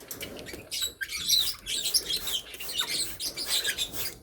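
Pet parrots chirping, a quick run of many short high chirps that overlap throughout.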